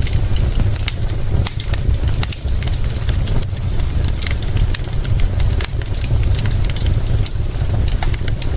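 Wood fire crackling, with many sharp pops and snaps, over a steady hiss of rain and a constant deep low rumble.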